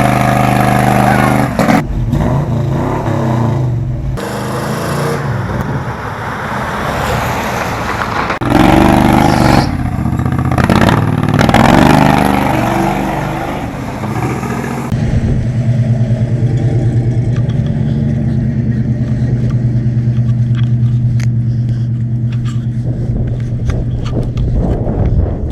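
Pickup truck engine revving hard and unevenly as the truck is pushed through blizzard snow, with brief breaks in the revs. After about fifteen seconds it settles into a steady, even drone.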